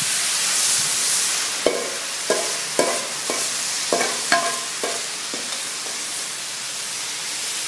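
Shredded potatoes in olive oil sizzling steadily on a hot Blackstone griddle. Between about two and five and a half seconds in come about eight light metallic clinks as the last shreds are knocked out of a stainless steel bowl.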